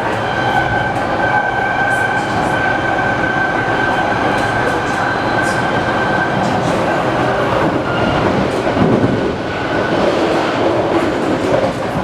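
BART rapid-transit train running along the track: a steady, loud rumble with a high whine that fades out about two-thirds of the way through.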